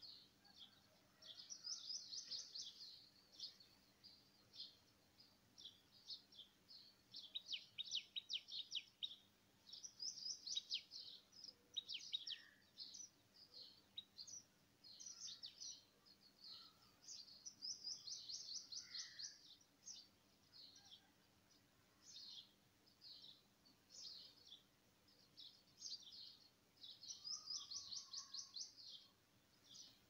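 Birds singing: rapid high-pitched trills, each lasting one to two seconds, alternate with short single chirps every second or so, with a few fainter lower notes between them.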